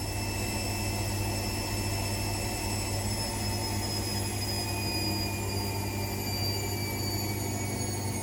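AEG Lavamat Exclusiv 6469AFL washing machine running with a steady hum and a high motor whine that falls slowly in pitch, as the drum slows from a spin.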